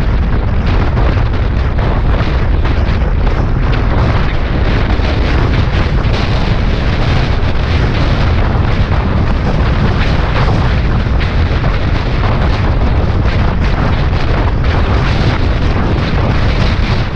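Suzuki Bandit 650S motorcycle at highway speed, with wind battering the microphone: a loud, steady rush with a heavy low rumble and constant gusts.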